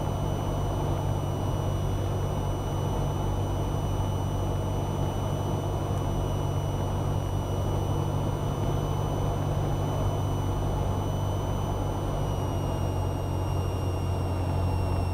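Cessna 172R's four-cylinder Lycoming engine and propeller droning steadily in flight, heard in the cabin. A thin high whine sits over it and dips slightly in pitch near the end.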